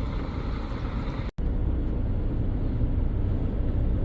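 Steady low rumble of a coach bus on the move, heard from inside the passenger cabin. The sound cuts out for an instant about a second in.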